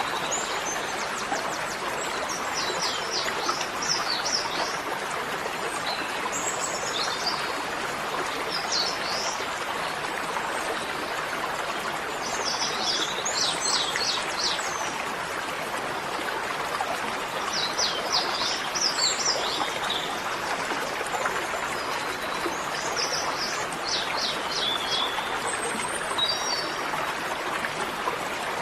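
A bird singing short phrases of quick, high notes every few seconds over a steady rush of running water.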